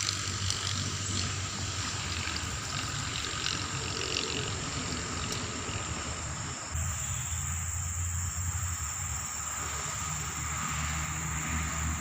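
Outdoor swamp ambience: steady insect chirring over a noisy hiss of water or wind, with a low rumble. The background changes abruptly about seven seconds in.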